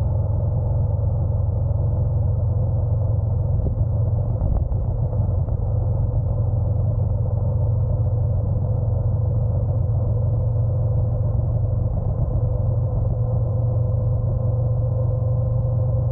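Honda NC750X motorcycle's parallel-twin engine running steadily under a constant low rumble, with a steady mid-pitched tone over it and no change in speed.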